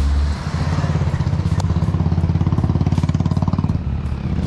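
A vehicle engine running, with a low, fast, even pulsing.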